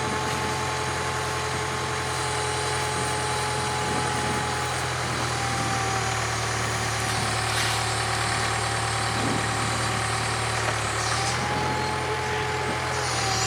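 Case 580K backhoe's diesel engine running steadily, with a high whine over it that drops slightly in pitch in the middle and rises again near the end.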